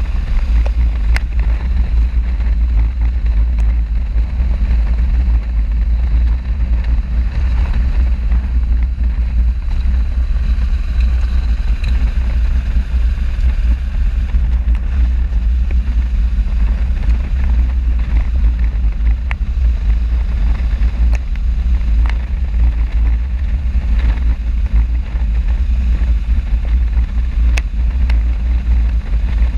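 Motorcycle riding at speed, heard as a steady deep rumble of wind buffeting the microphone over the running noise of the bike, with a few faint ticks.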